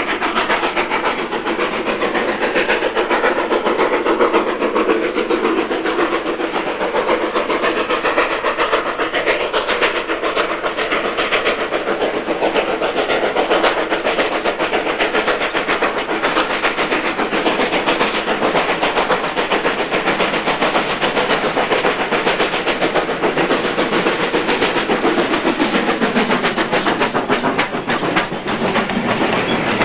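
A steam-hauled train running by, its carriages' wheels clattering over the rail joints, loud and continuous.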